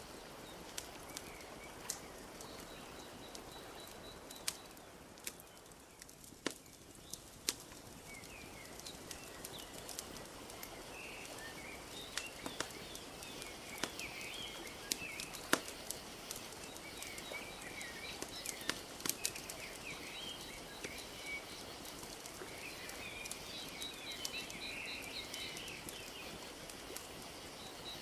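Wood fire crackling with scattered sharp pops over a steady wash of lapping lake water, while small birds chirp and twitter, busiest in the second half.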